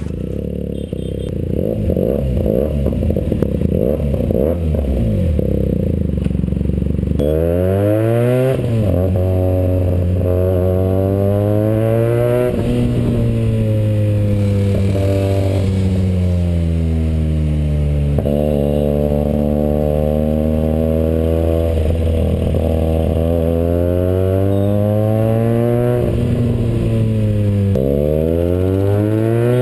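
Benelli TNT 300 parallel-twin motorcycle engine through an IXIL aftermarket exhaust. For the first several seconds it runs as a rough, uneven low rumble, then from about seven seconds in the revs repeatedly climb and fall back, the exhaust pitch rising and dropping.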